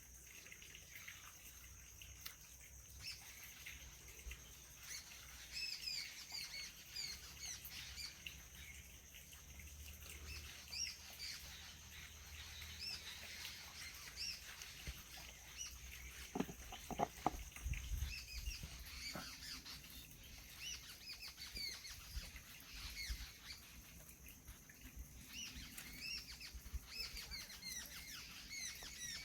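Birds chirping outdoors, many short high calls following one after another, over a faint steady high-pitched whine. A few sharp clicks come about two-thirds of the way through.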